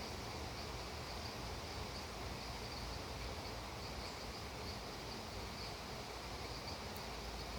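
Steady rain hiss, with an insect chirping in an even pulse about two to three times a second.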